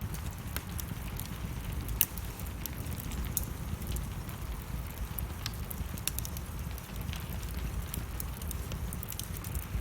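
Wood fire burning in a fireplace, crackling with irregular sharp pops, the loudest about two seconds in, over a steady low rumble.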